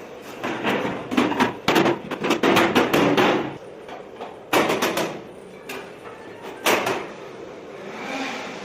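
A quick irregular run of clicks and knocks, then three single knocks spaced about a second apart: parts of a split air conditioner being handled and knocked during a dry service.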